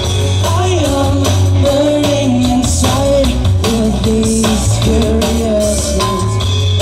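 Live rock band playing an instrumental passage: a lead guitar melody over bass guitar and drum kit.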